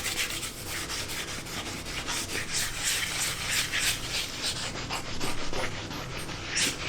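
Sandpaper rubbed by hand over dried filler primer on a repaired plastic motorcycle fairing panel, in repeated back-and-forth strokes of about two to three a second: smoothing the filler before painting.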